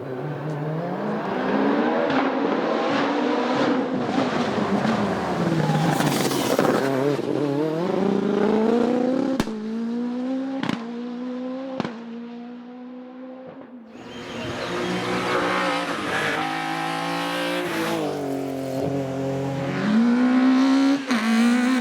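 Hillclimb race car engine at high revs, climbing and dropping in pitch through repeated gear changes, with three sharp cracks about halfway through. It fades out, and a second race car comes in, revving hard through its gears.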